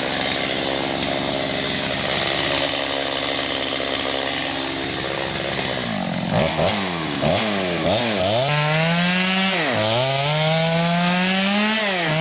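Two-stroke chainsaw cutting birch. It runs steadily under load for the first half; from about six seconds in the engine speed swings up and down, the pitch climbing and then dropping sharply every second or two as the chain bites into the wood.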